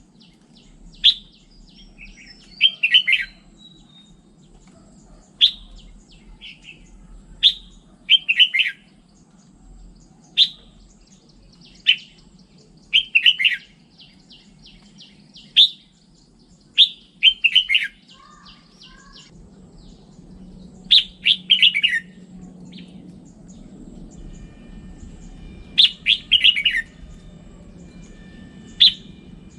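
Red-whiskered bulbul singing: short, quick phrases of sharp whistled notes, repeated every second or two.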